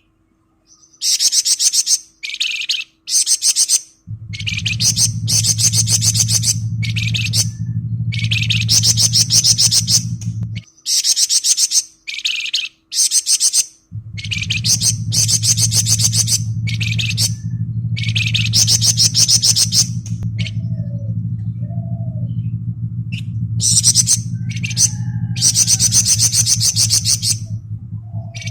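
Flamboyan bird singing in its rapid, rattling 'ngebren' trill, phrase after phrase of one to two seconds with short breaks between them. A steady low hum runs under the song, stopping for a few seconds in the middle.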